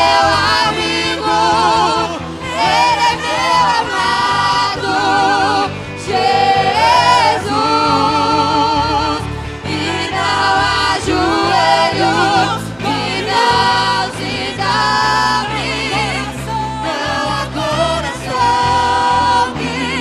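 Church choir singing a gospel worship song with instrumental accompaniment, the voices held on long notes with vibrato over a steady bass line.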